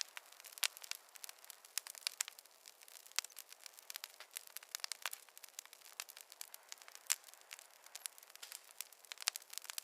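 Wood fire crackling in a fireplace: irregular sharp pops and snaps over a faint hiss, with no low rumble. One pop about seven seconds in stands out as the loudest.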